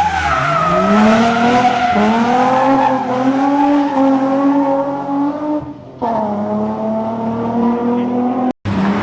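Rally car engine pulling hard through the revs, its pitch climbing for several seconds, then a brief lift off the throttle about six seconds in before it holds high revs again.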